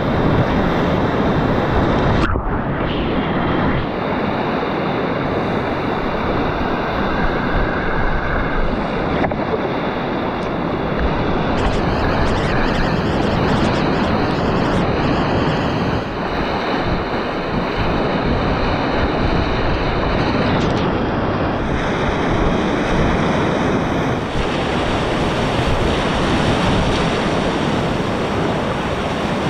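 Whitewater rushing through river rapids: a loud, steady wash of water noise.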